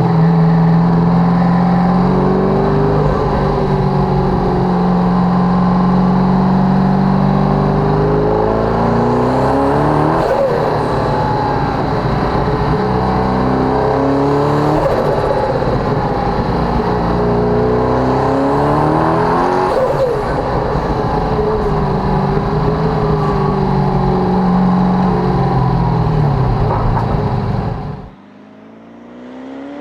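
Twin-turbocharged LS7 V8 of the Mazzanti Evantra Millecavalli accelerating hard. Its pitch climbs and drops back at each upshift, three times, with a short high hiss at each shift. The engine sound cuts off abruptly near the end.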